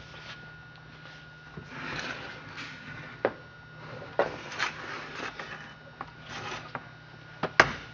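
Handling sounds: rubbing and rustling with several sharp clicks and knocks, the loudest near the end, over a faint steady hum.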